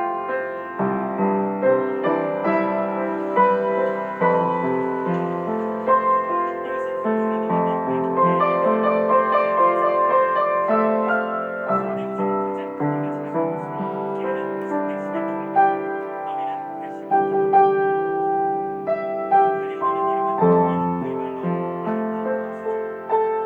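Solo piano music: slow, sustained chords and melody notes.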